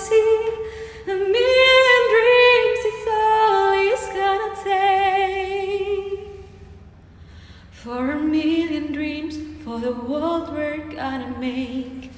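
A woman singing solo and unaccompanied: long held notes with vibrato, a brief pause about seven seconds in, then a lower phrase.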